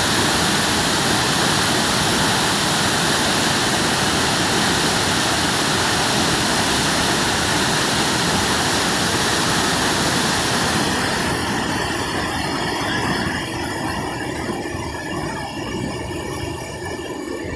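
Steady rushing roar of a large waterfall, Wachirathan Falls, crashing water heard close up. About two-thirds of the way through, the hissing top of the sound thins out and the roar turns somewhat duller and quieter.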